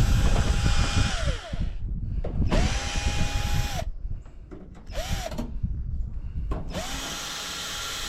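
Power drill running in short bursts: three runs of a second or more and one brief blip, each time spinning up to a steady whine and winding down.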